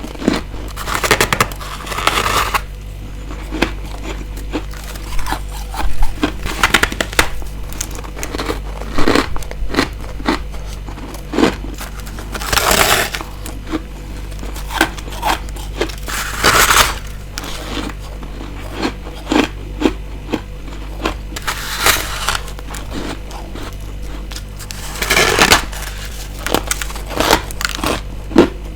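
Close-miked bites and chewing of ice: many short crisp crunches, with bigger crunching bites every four to six seconds, over a steady low hum.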